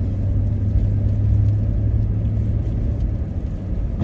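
Steady low rumble of a car on the move, its engine and tyres on the road, heard from inside the cabin.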